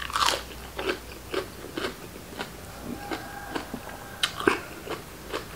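Close-miked chewing of raw beef and liver, wet crunchy bites in a quick, even rhythm of about three a second.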